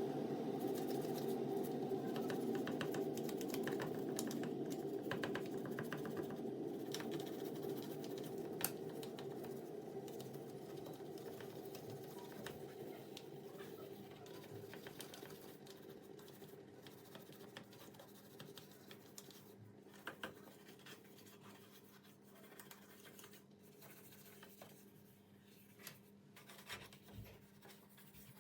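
A steady hum that fades slowly over the whole stretch, with scattered light clicks, taps and scratching, like small objects being handled.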